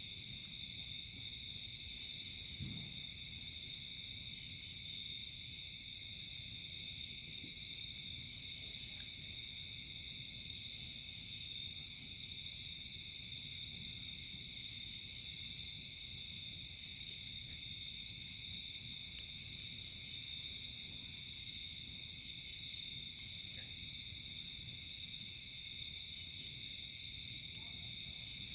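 A night chorus of crickets and other insects trilling steadily, with a higher-pitched buzzing phrase coming in about every six seconds. A few faint pops from the campfire sound over it.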